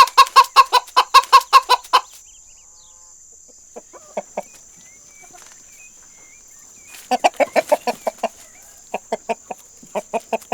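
Chicken clucking: a quick run of clucks, a few scattered single clucks, then two more runs of rapid clucking.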